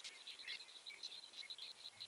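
Faint woodland birdsong: a quick string of short high chirps repeated over and over, with other scattered calls.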